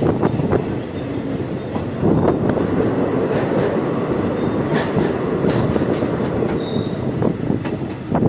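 Passenger train running along the track, a steady rumble of wheels on rail with irregular clacks as the wheels pass over rail joints.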